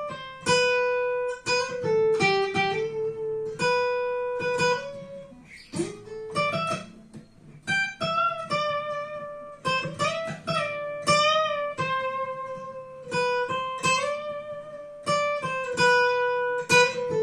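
Yamaha FGX730 acoustic guitar played solo: a plucked single-note melody over lower bass notes, with notes rung out one after another rather than strummed. About six seconds in a note slides up in pitch, and held notes around ten to eleven seconds waver with vibrato.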